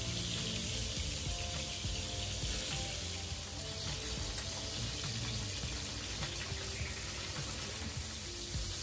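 Steady sizzling of fish fillets and tikka skewers frying in pans on a gas stove, under soft background music.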